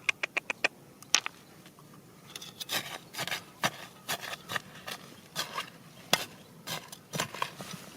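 Digging tool scraping and tapping against rock and gravel: a quick run of about five clicks at the start, then irregular scrapes and knocks.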